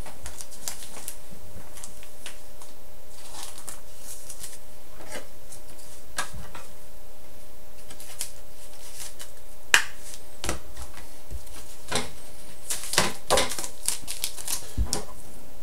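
Hockey trading cards being handled: scattered light clicks and slides as cards are moved and set down, with one sharper click about ten seconds in and a few more close together near the end, over a steady faint hiss and hum.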